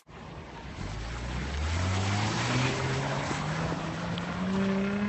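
SUV engine revving under load as it climbs a steep dirt slope, its pitch rising steadily throughout, over a steady rushing noise.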